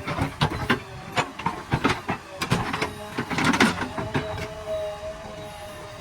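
Backhoe loader running with a steady whine, under frequent irregular metallic clanks and knocks, several a second.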